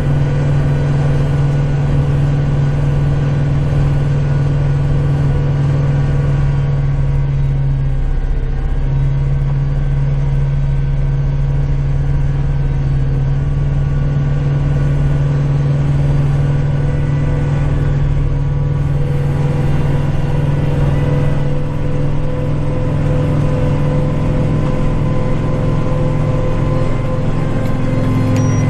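Kubota tractor engine running steadily under load while driving its snowblower, with small shifts in engine note.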